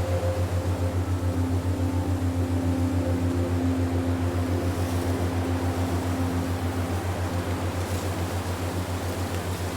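Steady low humming drone that pulses evenly several times a second, with faint held higher tones above it, as in an ambient relaxation soundtrack.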